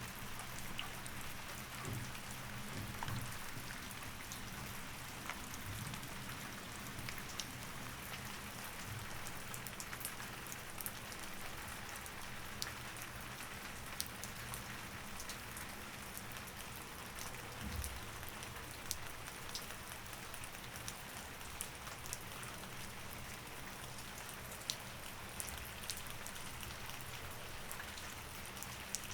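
Steady rain with an even hiss, individual drops ticking sharply now and then, and a faint low hum underneath.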